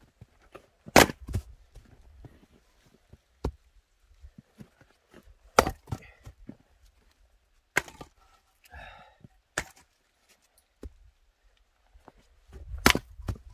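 Axe splitting firewood: several sharp, separate chopping strikes a second or more apart, with the crack of wood splitting.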